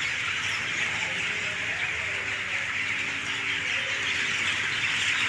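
A large flock of broiler chickens in a shed, a dense steady chatter of many birds calling at once.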